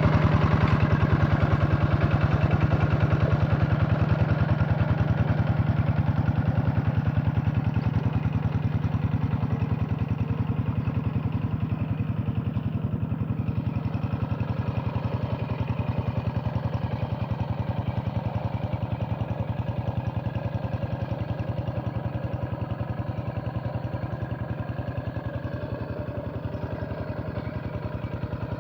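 Single-cylinder diesel engine of a two-wheel hand tractor running steadily under load while working a flooded rice field, with a rapid even chugging; it gradually gets quieter as the tractor moves away.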